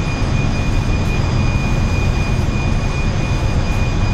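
Steady, loud drone of a very large crude carrier's engine room machinery running, with a constant high whine over it.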